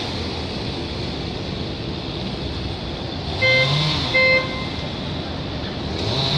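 Street traffic with a vehicle engine revving up twice, and two short horn toots in a row about three and a half seconds in.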